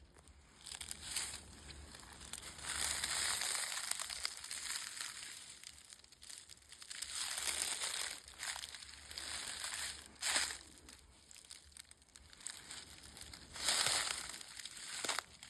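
Footsteps crunching and rustling through dry leaf litter in slow, irregular stretches, with a few sharper crackles, as a hunter stalks forward.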